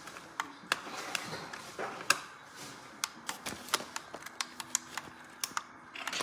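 Irregular sharp clicks and taps, a few a second, of hard objects being handled.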